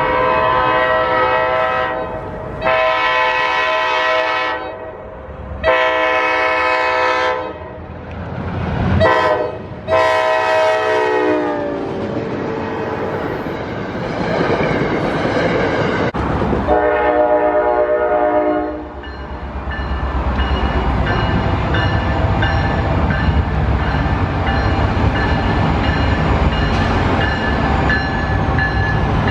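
Locomotive air horn sounding a run of chord blasts, three long ones, then a short one and a long one, the last falling in pitch as it passes. Another long blast comes about five seconds later, then the steady rumble and clatter of the train rolling by.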